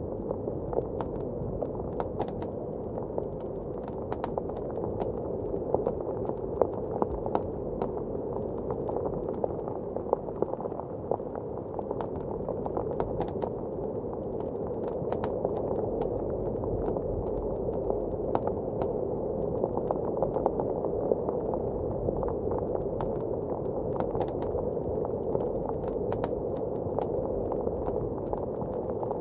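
Wood fire crackling in a fireplace, with irregular sharp pops and snaps, over a steady, muffled rush of blizzard wind outside.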